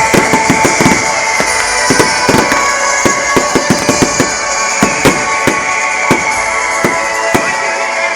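Fireworks display: dense, irregular bangs and pops, several a second, over music.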